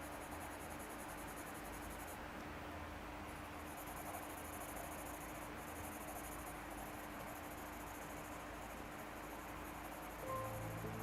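Graphite pencil shading on paper: a faint, steady scratchy hiss of the lead rubbing the sheet. Background music comes in near the end.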